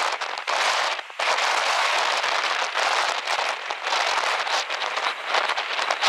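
Steady crackling rush of water, with a brief drop about a second in.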